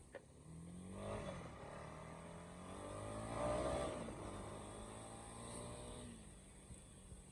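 Honda CB300R single-cylinder engine revving, its pitch climbing about a second in and again to its loudest around three and a half seconds in, then dropping back near six seconds.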